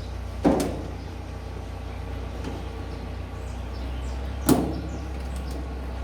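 Two sharp plastic clacks, about four seconds apart, as clips and parts of the washer's top panel are pressed into place.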